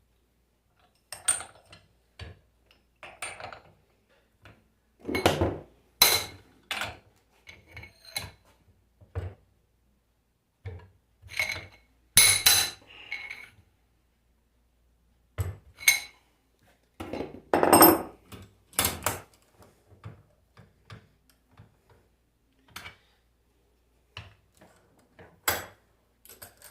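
Hand tools and metal alternator parts clinking and knocking at irregular intervals during reassembly of the alternator, a few strikes ringing briefly like struck metal.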